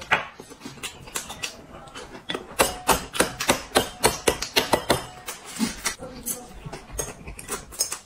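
Close-up eating sounds at a table: an irregular run of sharp clicks and crackles, several a second, from chewing and from a boiled egg's shell being cracked and peeled.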